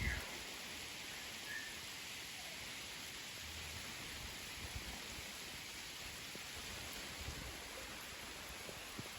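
Steady rain falling, an even hiss with a few faint drips and ticks.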